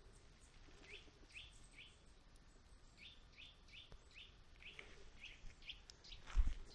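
A small bird calling with short, falling chirps, a few at first and then a run of about seven at nearly three a second. Near the end a sudden thump and rustle, louder than the calls.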